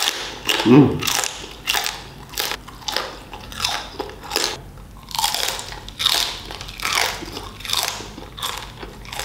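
A man chewing crispy roast pork, with a steady run of sharp crunches, a bit under two a second.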